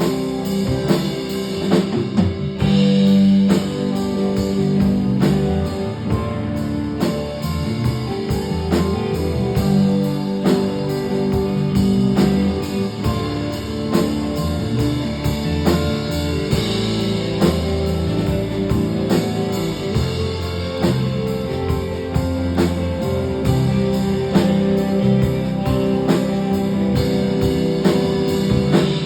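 A band playing an instrumental passage of a rock song, with guitar over a steady drum-kit beat and no singing.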